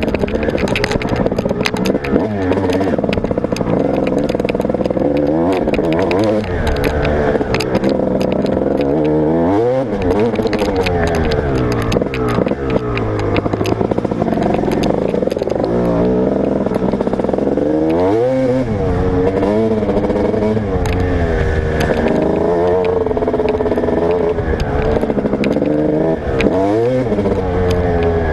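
Motocross bike engine ridden hard around a track, its pitch climbing and dropping over and over as the rider accelerates, shifts and backs off, with clattering from the bike throughout.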